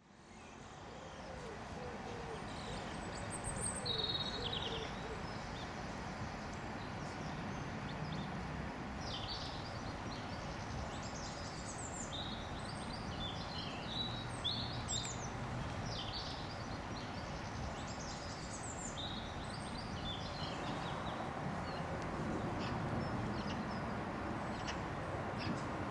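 Birds chirping and singing in short repeated phrases over a steady outdoor background hiss, fading in at the start.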